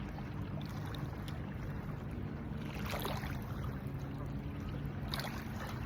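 Steady low motor hum with a haze of wind and water noise, broken by two brief faint sounds, about three seconds in and again near the end.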